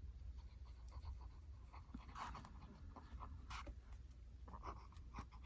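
Faint scratching and light tapping of a fabric-paint applicator on a paper journal page as paint is dabbed on, over a low room hum.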